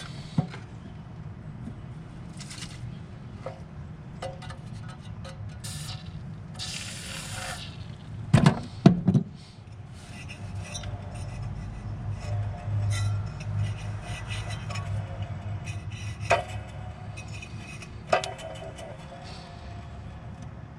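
Clinks, knocks and rubbing of tools and metal parts being handled, with a cluster of sharp knocks about eight to nine seconds in and single ones later, over a steady low hum.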